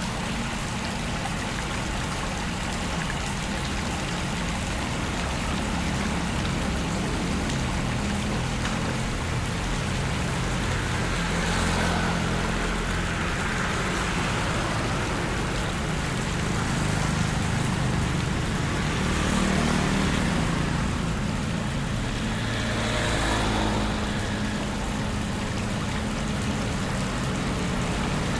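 Vehicles driving through a flooded road, with a low engine rumble over a steady rush of water. A few louder swells of splashing come and go in the middle and later part.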